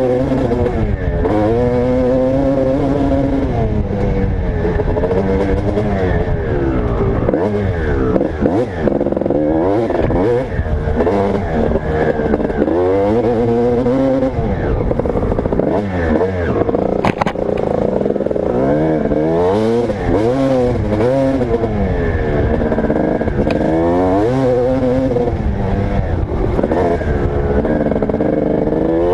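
Motocross bike engine revving and backing off over and over, its pitch climbing and dropping every second or two as the throttle is opened and closed.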